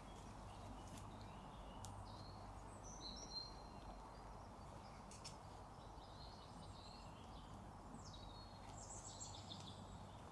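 Faint small birds chirping and twittering in short high phrases, some sliding in pitch, over a quiet steady background hiss.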